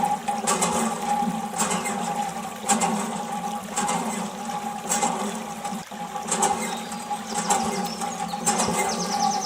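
Small electric motor of a DIY model water pump running steadily with water splashing, a short stroke repeating about once a second.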